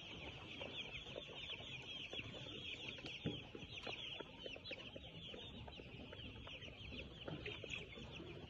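A flock of young chickens peeping continuously, a dense chorus of many short, high chirps overlapping with one another.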